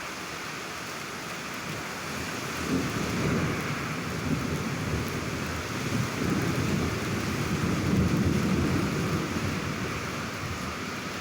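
Steady rain with a long rolling rumble of thunder that builds about two seconds in, swells and fades away near the end.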